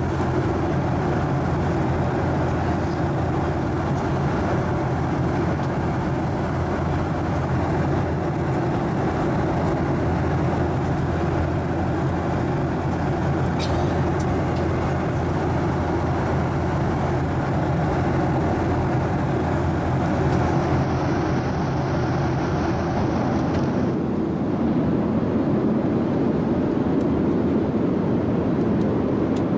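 Steady cabin noise inside a Boeing 737-900ER airliner: a constant rush of engine and airflow noise with a low hum underneath. The sound shifts slightly at a cut about three quarters of the way through.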